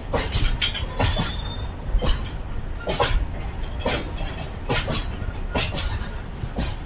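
Indian goods train's wagons rolling on the track: a steady low rumble with repeated, irregular clacks and knocks as the wheels cross the rail joints.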